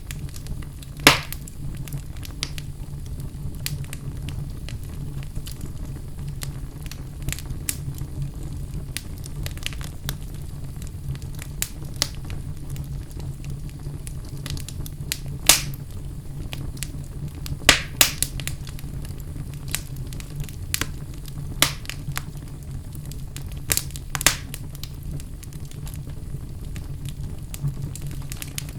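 Wood fire burning in a fireplace: a steady low rumble with irregular sharp crackles and pops, a few of them much louder than the rest.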